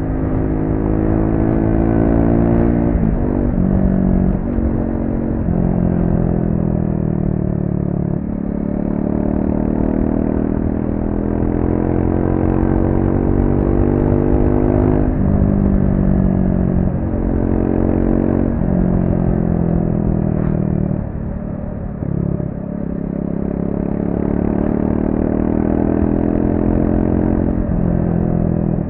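Triumph Speed 400's single-cylinder engine, on its stock exhaust, pulling through corners. The engine note climbs over a few seconds and then drops sharply, again and again, as the revs rise and fall. It goes quieter briefly about three-quarters of the way through.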